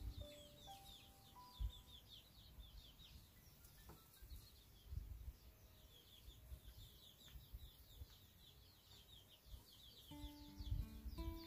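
Faint, rapid chirping of small birds: quick runs of short, falling high notes, once at the start and again from about five to nine seconds in. Soft background music with a few held notes plays at the start and comes back near the end.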